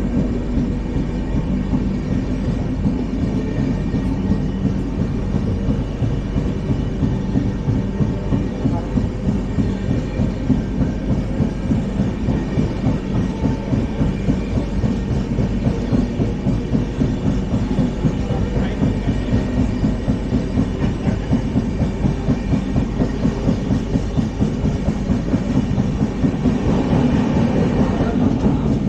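LHB passenger coach running at speed on the rails: a steady heavy rumble with a fast, regular wheel-on-rail clatter. It grows a little louder near the end.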